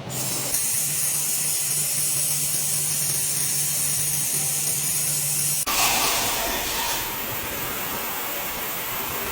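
A steady, loud hiss over a low machine hum. A little over halfway through it cuts abruptly to a rougher hiss without the hum.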